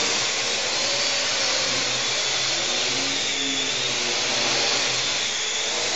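Parrot AR.Drone quadcopter's four propellers and electric motors whirring steadily in flight, the pitch wavering slightly.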